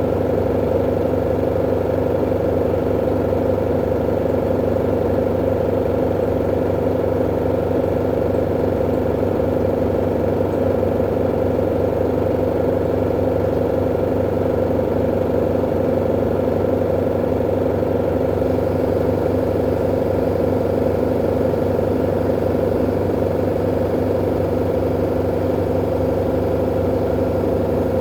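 V-Zug Unimatic SL washing machine running with a loud, steady mechanical hum that holds the same pitch throughout.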